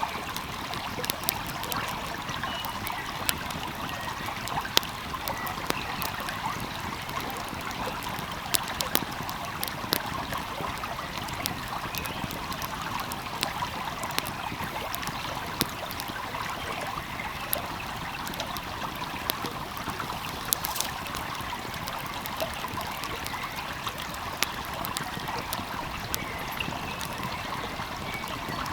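A stream flowing steadily, with a wood fire crackling over it in frequent sharp, irregular pops.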